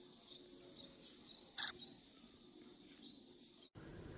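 Steady high-pitched chorus of summer insects, with one short, loud chirp about one and a half seconds in.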